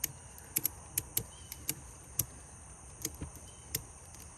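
Ratchet strap buckle clicking as it is cranked to tighten the strap over a beehive: a dozen or so sharp clicks at uneven intervals, several in quick pairs. A steady high chirring of crickets runs underneath.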